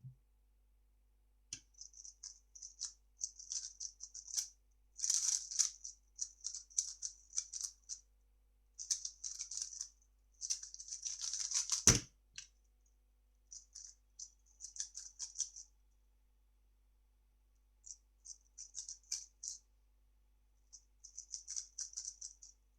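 A 3x3 speedcube being turned fast in bursts of plastic clicking and clattering for about ten seconds. The bursts end in a single sharp thud about twelve seconds in. After that come shorter bursts of turning with pauses between them.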